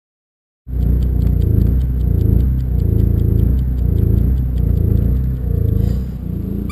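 RV's propane generator running with an uneven, pulsing note: it is running a little rough and due a tune-up.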